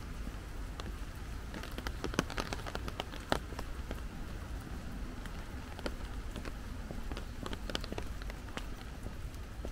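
Light rain falling, with drops ticking irregularly over a steady hiss.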